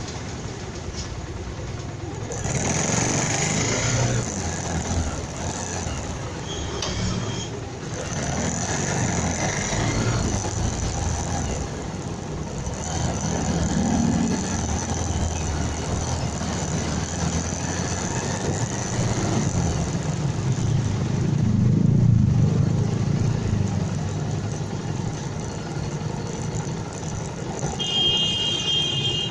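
Motorcycle engine and road and wind noise picked up by the bike's dashcam while riding, a continuous rumble that swells and fades a few times. A short high-pitched tone sounds near the end.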